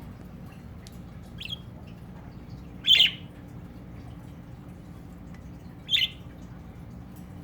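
Budgie (parakeet) calls: two loud short squawks about three seconds apart, with a fainter chirp before them, over a steady low hum.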